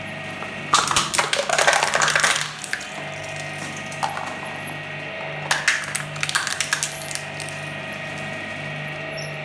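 Electric shredder running with a steady hum while it crunches hard lollipop candy: two bursts of rapid cracking and clinking, the first about a second in and the second past the middle.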